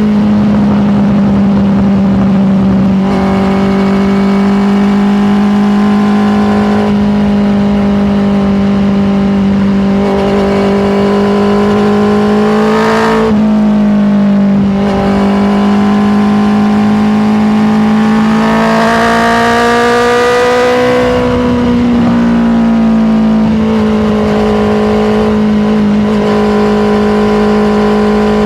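Honda CBR650R's inline-four engine running at steady revs while riding. About 13 seconds in the pitch climbs briefly, then drops suddenly, and around 19 to 22 seconds in it rises and falls away slowly.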